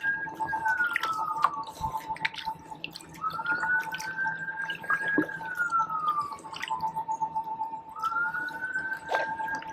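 Water dripping and trickling off a kayak paddle in scattered small clicks, under a distant wailing tone that rises, holds for a second or two and slowly falls about every five seconds over a steady lower tone.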